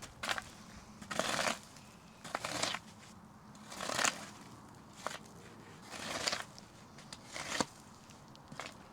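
Slow footsteps crunching on rough, dry ground, a step about every second and a bit, each a short crunch.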